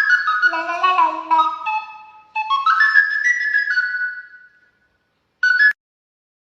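Pet raven whistling a flute-like melody in two phrases of stepping notes, with one short clipped note near the end.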